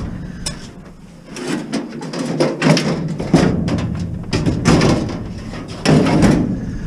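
Scrap metal parts being handled: irregular clattering, knocking and scraping of metal pieces, in several loud bursts.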